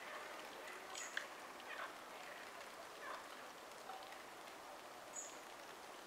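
Faint, scattered short bird chirps, a few of them sliding downward in pitch, with small clicks over a quiet outdoor background hiss.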